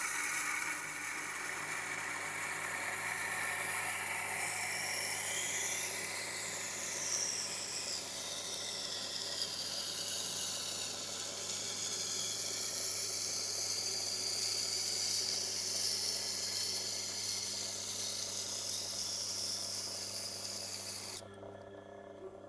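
Steel knife blade being ground on a Tormek's turning wet sharpening stone: a steady hiss over the grinder motor's hum. The hiss cuts off suddenly near the end as the blade comes off the stone.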